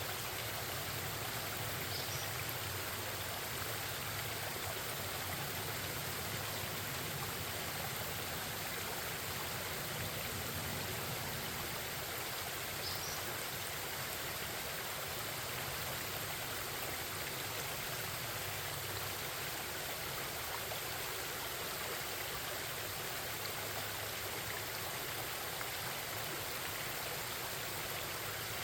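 Forest stream babbling steadily. Two brief, faint bird chirps come through, about two seconds in and again near the middle.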